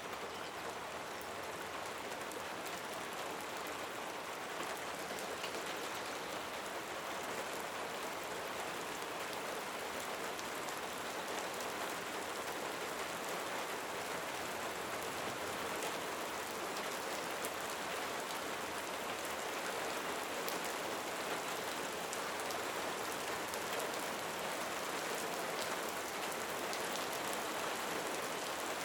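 Steady rain falling, a dense patter of drops, slowly growing a little louder.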